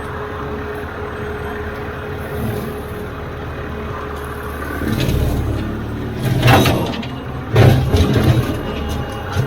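Diesel tractor engine running steadily under a mowing load, with louder surges of noise about five seconds in and again in the last few seconds.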